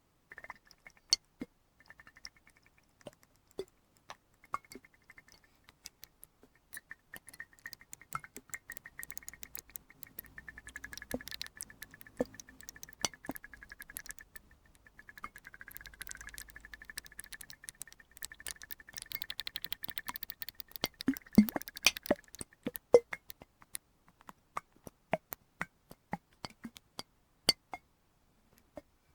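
Water being handled in a glass flask: many small, irregular clinks and pops, thickest in the middle and loudest around two-thirds of the way in, with a faint steady high tone under them that stops about three-quarters of the way through.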